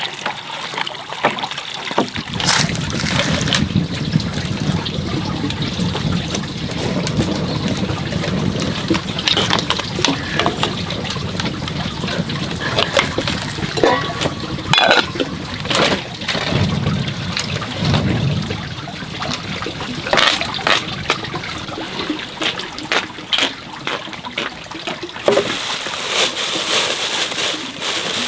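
Water trickling and splashing, with scattered knocks and clatters throughout.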